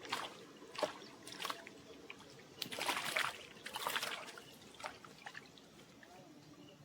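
Water splashing and trickling in a run of short bursts, the largest between about two and a half and four seconds in.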